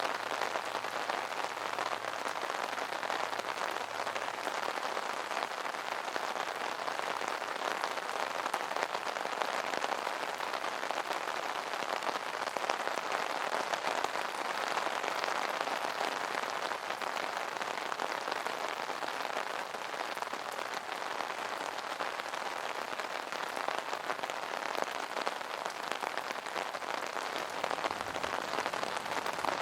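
Steady rain pattering on an umbrella canopy, a dense, even patter of drops with no thunder.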